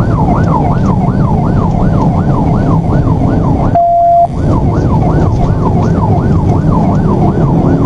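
Police car siren on yelp, sweeping rapidly about three to four times a second over a low rumble of engine and road noise during a high-speed pursuit. About four seconds in, the sweeps stop for half a second and a single steady beep sounds.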